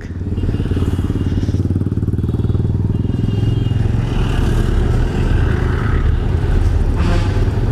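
Motorcycle engine running steadily while the bike is ridden, a continuous low rumble with fine regular pulsing. There is a brief noisy burst about seven seconds in.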